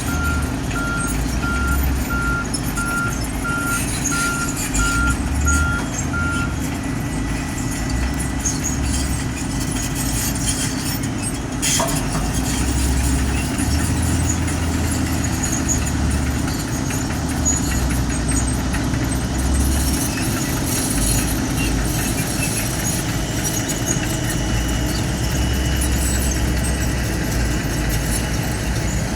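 Heavy machinery engine running steadily at a low drone while a crane or truck works a girder load. A regular warning beep sounds over it and stops about six seconds in. There is one sharp click a little before the middle.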